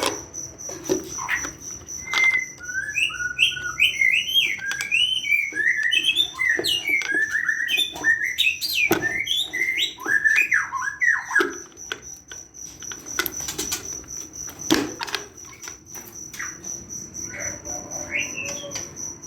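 White-rumped shamas (murai batu) calling: a quick run of varied whistled chirps for about ten seconds, then sparser notes and a few clicks.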